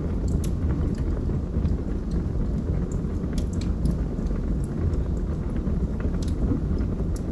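Wood fire burning in a fireplace: a steady low rumble of flames with irregular sharp crackles and pops from the burning logs, about one or two a second.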